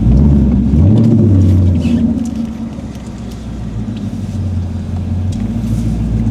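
Ford Mustang GT's 5.0 V8 running through its exhaust, revving up about a second in, settling back to a lower idle, then rising again near the end.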